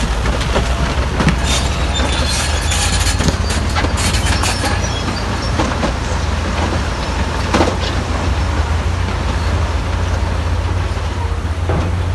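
Crawler bulldozer running under a steady low engine rumble, its steel tracks clanking and squealing, with a quick run of knocks about two to five seconds in and one sharp knock past halfway.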